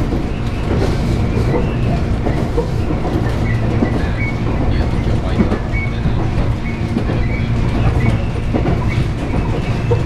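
Shizuoka Railway 1000 series electric train running at speed, heard from behind the driver's cab: a steady rumble of wheels on rail with scattered clicks over the rail joints.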